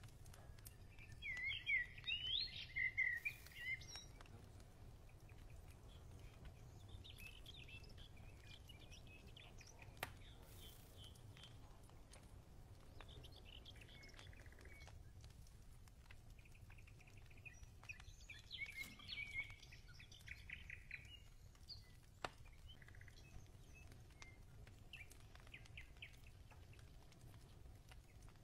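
Birds chirping and singing, loudest in a short burst about two seconds in and again a little past the middle, over a low steady background rumble with a few faint clicks.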